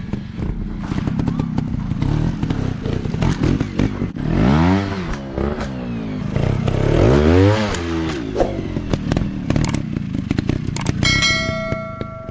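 Dirt bike engine running off-road, revving up and back down twice near the middle, amid clattering and knocks. A steady ringing tone sounds near the end.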